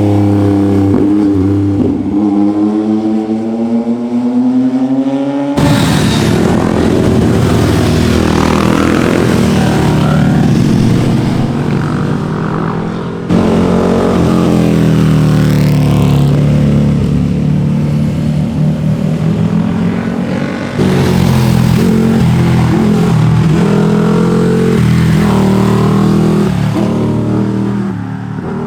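Sport motorcycle engines revving hard and accelerating past one after another, the engine note rising and falling in pitch through gear changes. The sound changes abruptly three times, between separate passes.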